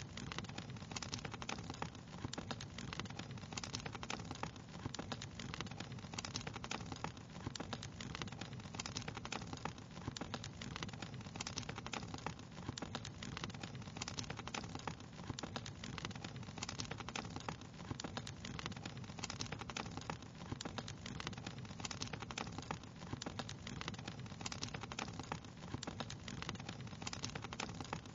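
Wood fire crackling steadily, with many small snaps and pops over a low, even rumble of the flames.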